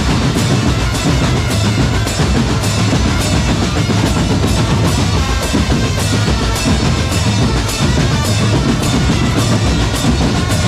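Drum corps percussion playing together: bass drums and snare drums beating out a steady, driving rhythm.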